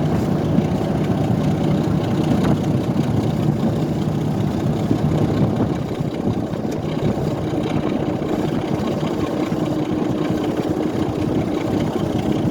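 Diesel railway engine running steadily, a continuous drone whose steady note shifts higher about halfway through.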